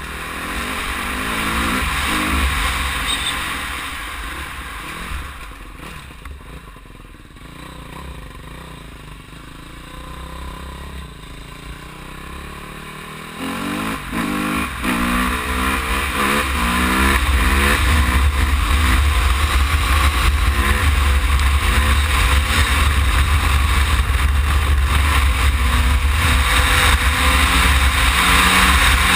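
Dirt bike engine revving and accelerating through the gears. It is loud at first and fades away. About halfway through it comes back with a series of rising revs, then runs loud and steady with a heavy low rumble.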